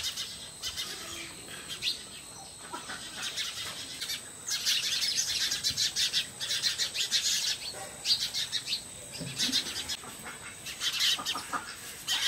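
Birds chirping in quick bursts of short, high notes, busiest from about four to eight seconds in and again near the end.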